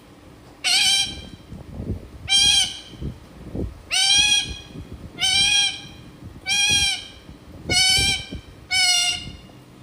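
Indian ringneck parrot imitating a goat's bleat: seven wavering, bleat-like calls, each about half a second long, repeated every second or so.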